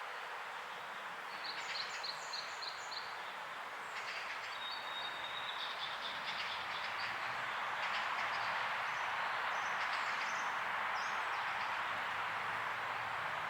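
Birds chirping, with a quick run of short high notes near the start and a thin whistled note a few seconds later, over a steady rushing background noise that grows louder after the middle.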